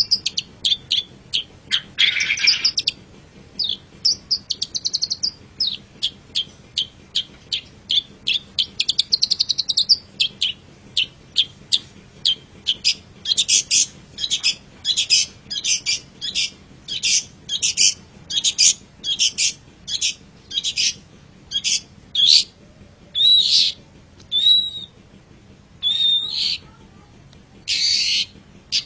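Long-tailed shrike (cendet) singing: a long run of short, sharp chirps, two or three a second, with a few quick trills, a harsher rasping note about two seconds in and some slurred whistles near the end.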